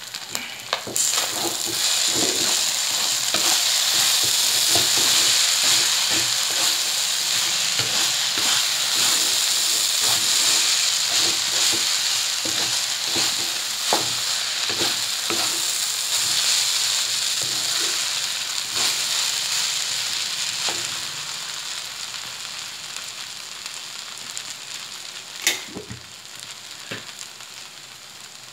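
Fried rice sizzling in a wok as a wooden spatula stirs and tosses it, with scattered knocks of the spatula against the pan and one sharper knock near the end. The sizzle swells about a second in and dies down over the last several seconds.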